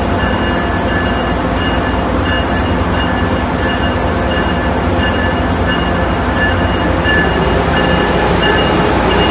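Amtrak Acela Express high-speed electric trainset moving slowly along the platform: a steady rumble and low hum, with a high tone sounding in short repeated pulses, growing a little louder near the end as the power car comes alongside.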